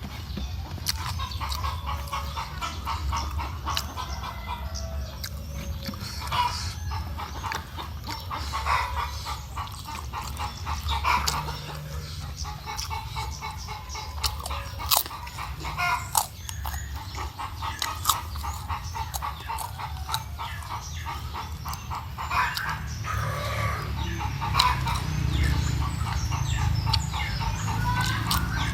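Chickens clucking in the background over close eating sounds: chewing and crunching of crackers with many small clicks, above a steady low hum.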